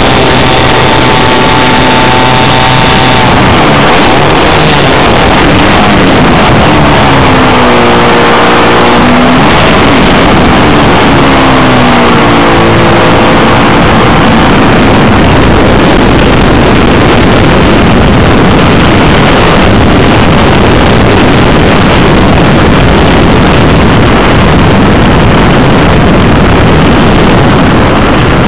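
JBA 75 engine of an Extra 300S model aeroplane running at high power, picked up by an onboard camera, so it is loud and mixed with wind noise. Its pitch sags and comes back up twice, about eight and twelve seconds in.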